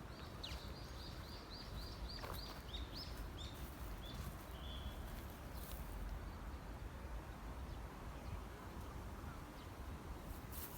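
A songbird singing a quick run of about ten short, high repeated chirps, ending in a few lower notes about five seconds in, over steady low outdoor background noise.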